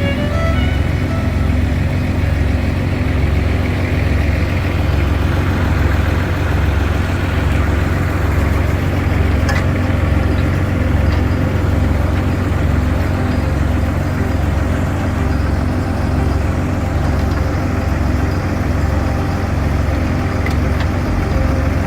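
A heavy engine idling steadily, with a low hum that pulses evenly.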